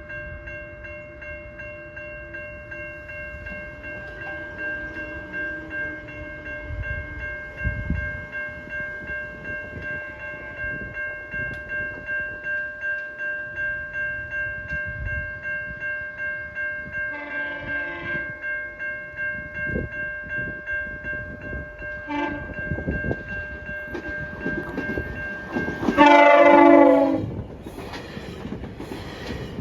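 GO Transit push-pull train approaching with cab car 253 leading, its horn sounding a short blast about 17 seconds in, a brief toot about 22 seconds in, and a long, loud blast about 26 seconds in. Beneath it a steady ringing tone pulses about twice a second.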